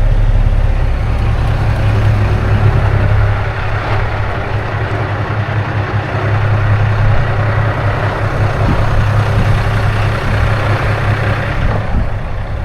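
Semi truck's diesel engine running steadily while driving, a loud low drone with road noise over it.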